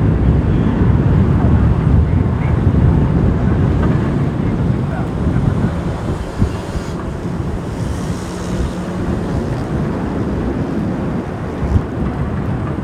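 Strong wind buffeting the microphone: a loud, steady low rumble with a small knock near the end.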